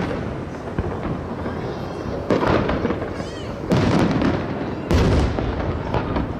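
Aerial fireworks shells bursting over the sea: three loud booms a little over a second apart in the second half, each trailing off in a rolling rumble and echo.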